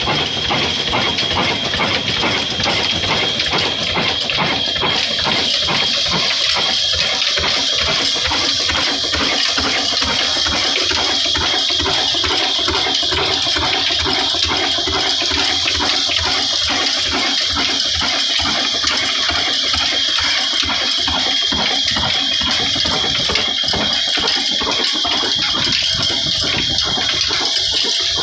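Old desi diesel engine running steadily, its rhythmic firing beats under a loud, constant hiss.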